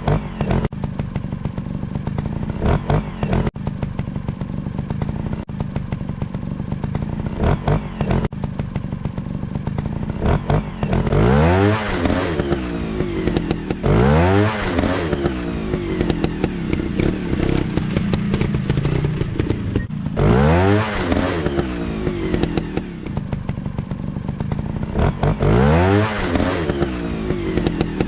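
Motocross dirt bike engines running, with about four sharp revs where the engine pitch climbs and drops again over a second or so.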